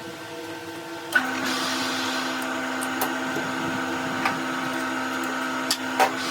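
Workshop machine's electric motor running with a steady hum. About a second in, a second steady tone and a rushing hiss start together, with a few sharp clicks now and then.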